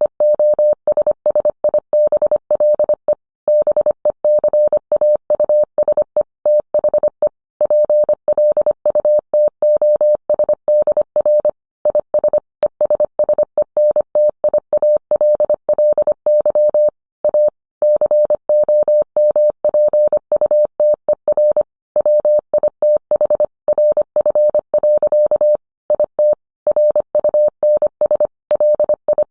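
Morse code sent as a single steady audio tone, keyed on and off in quick dots and dashes with short pauses between characters and words.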